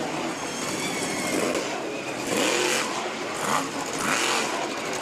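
Monster truck engine revving hard, its pitch rising and falling several times in quick surges.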